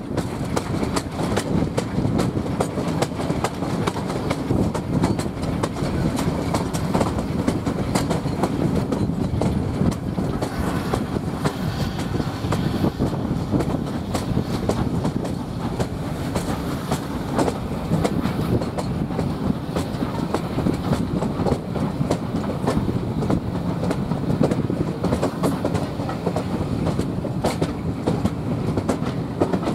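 Heritage railway passenger coach running along the line, with steady rolling noise and the clickety-clack of wheels over the rail joints, heard from an open carriage window.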